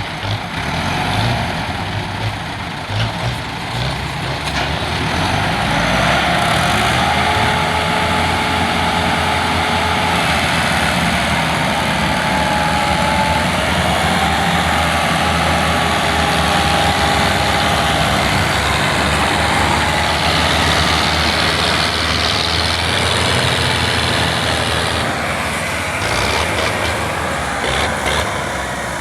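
Tractor engine running steadily, with a wavering higher tone over it in the middle of the stretch.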